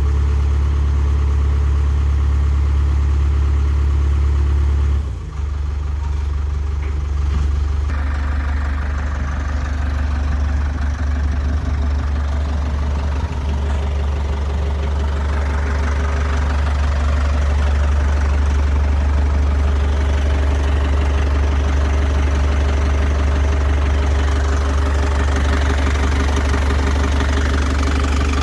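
Diesel engine of a Thwaites 6-tonne site dumper running steadily at idle with a knocking clatter. About eight seconds in the sound changes, with more clatter and higher-pitched noise added.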